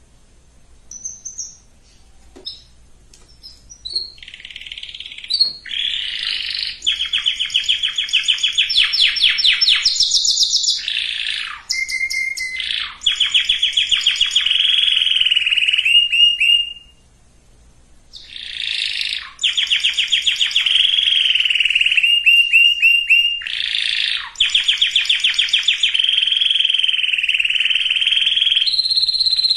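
Domestic canary singing: a few scattered chirps, then long fast trills and rolling high phrases. The song breaks off for a moment a little past the middle and starts again.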